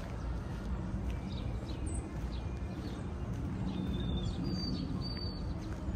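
Birds chirping and whistling in short high calls over steady low background noise of the park.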